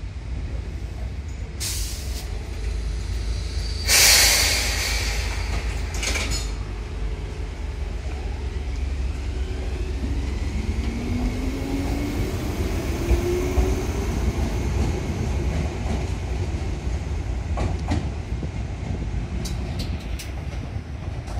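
Enshu Railway electric train (sets 2001F and 1002F coupled) pulling out of the station: a steady low rumble, a loud hiss about four seconds in, then a rising motor whine as it accelerates away, with a few sharp clicks near the end.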